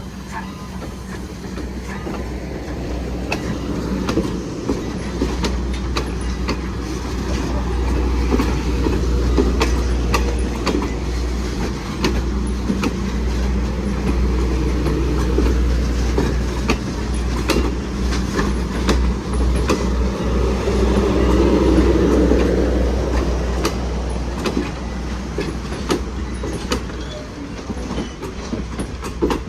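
A train rolling past, a steady low rumble with wheels clicking over rail joints, building to its loudest about three-quarters of the way through and easing off near the end.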